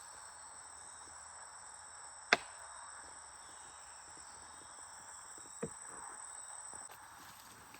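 Steady high-pitched drone of rainforest insects that cuts off near the end, with a single sharp, loud crack a little over two seconds in and a softer knock about halfway through.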